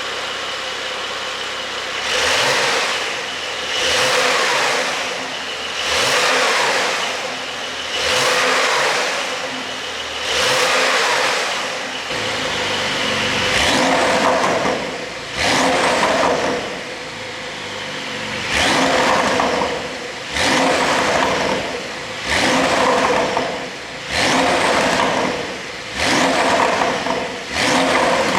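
Porsche 911 992 Carrera 4 GTS twin-turbo flat-six revved again and again, about a dozen blips roughly every two seconds, each rising and falling back to idle. The engine runs an ECU tune set up for exhaust pops on the overrun.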